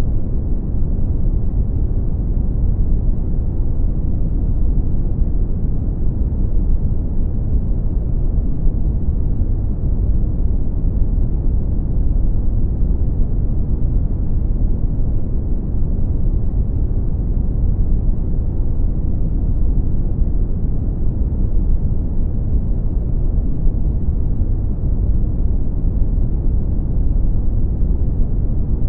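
Brown noise: a steady, deep rumbling hiss with most of its weight in the bass and little treble, unchanging throughout.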